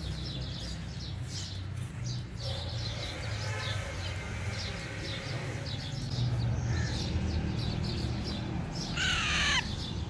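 Birds chirping over and over in short high notes, with one loud harsh bird call sliding down in pitch near the end, over a low rumble.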